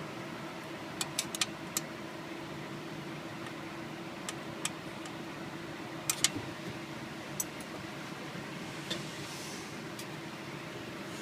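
Irregular sharp metallic clinks and clicks of a wrench on small bolts while the rear cover bolts on a 6.0 Powerstroke are being loosened, heard over a steady shop hum.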